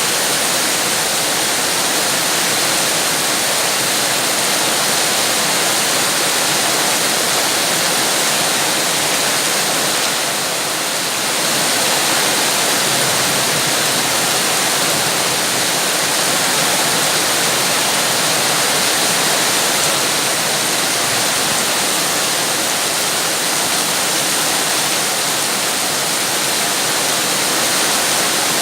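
Steady, dense rain: an even hiss of water with no separate drops standing out, easing slightly for a moment about ten seconds in.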